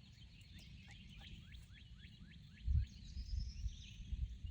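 Songbird singing: a quick run of about eight short rising chirps in the first two seconds, then a higher thin rising call. From a little under three seconds in, loud low muffled bumps cover it, louder than the birdsong.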